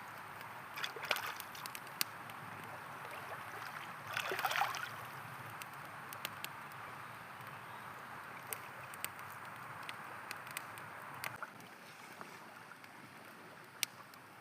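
Wood campfire crackling with scattered sharp pops over the steady rush of a flowing river, with a brief louder rush about four seconds in.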